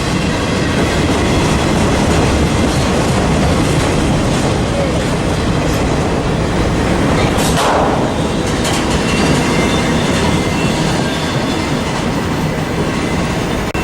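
Train passing at close range: a loud, continuous rumble with wheels clattering over the rail joints.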